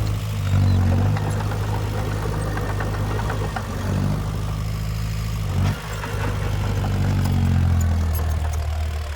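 Heavy diesel engine of earthmoving machinery running under load. Its note rises briefly about half a second in and again near the end, with light clanking on top.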